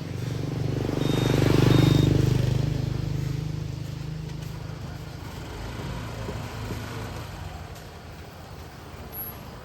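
A motor vehicle's engine drone swells loudly to a peak about two seconds in, as if passing close by, with two short high beeps near the peak, then settles to a steadier, quieter engine hum.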